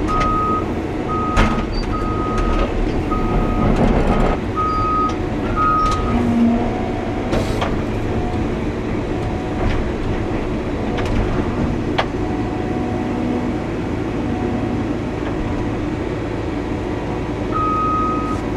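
Cat 320 hydraulic excavator running with its engine droning steadily while its travel alarm beeps, about one and a half high beeps a second, for the first six seconds, stops, and starts beeping again near the end as the tracks move.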